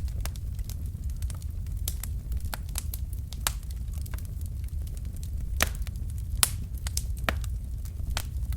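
Wood fire in a fireplace, logs crackling with irregular sharp pops and snaps over a steady low rumble of the flames; a few louder pops about two-thirds of the way in.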